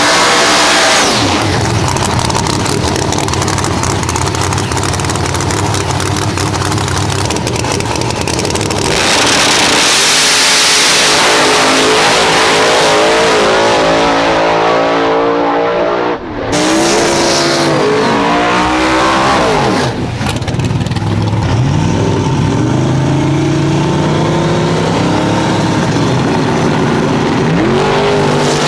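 Drag-racing car engines at hard throttle, their pitch repeatedly climbing and dropping as they rev and pull. A brief dip about sixteen seconds in breaks to another run at similar full power.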